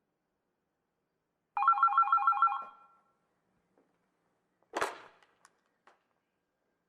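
A short burst of rapid ringing, about eight quick pulses in a second, starting a little over a second in; about three seconds later a single sharp knock followed by a few faint clicks.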